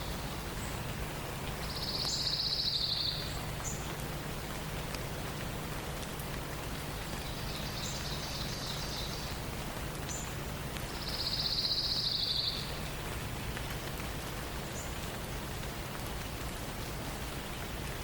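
A songbird sings a rapid, high trill three times, each lasting about a second and a half, the middle one fainter, with a few short high chips between. Behind it runs a steady hiss with a low hum.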